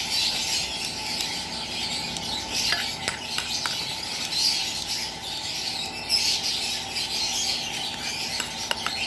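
Continuous high-pitched chirping of many small birds, with a few light clicks around three seconds in and near the end.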